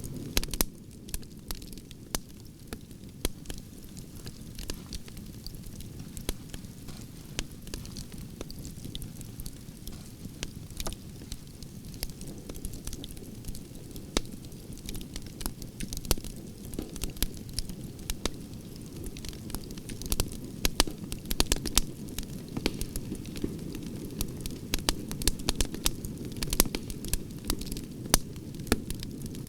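Campfire of burning branches crackling and popping, with a steady low rumble of flames under frequent sharp, irregular pops that grow busier near the end.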